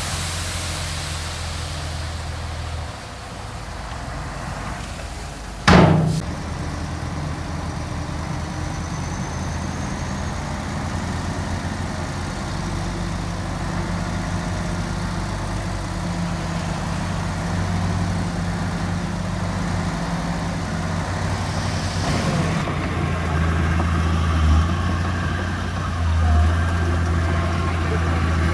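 Heavy diesel construction machinery, a small bulldozer and dump trucks, running steadily. A single sharp bang comes about six seconds in.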